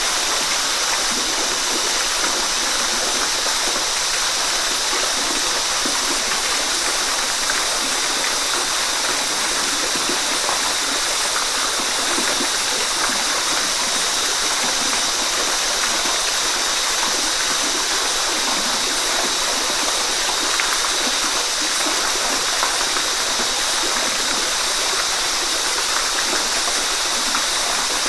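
Running water flowing in a steady, even rush with no breaks or pauses.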